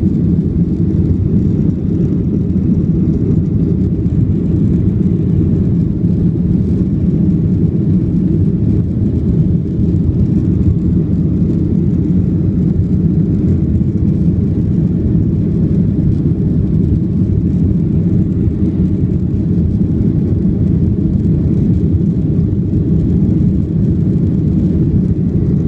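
Airliner in flight after take-off: a steady, loud low rumble of engines and airflow that holds without change.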